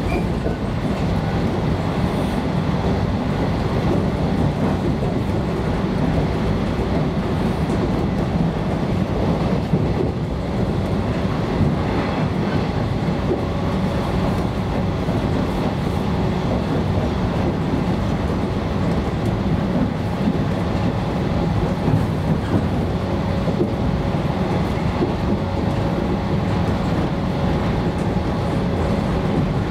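A JR West 115 series electric train running at speed, heard from inside the passenger car: a steady running noise of wheels on rails, with occasional clicks as the wheels pass rail joints.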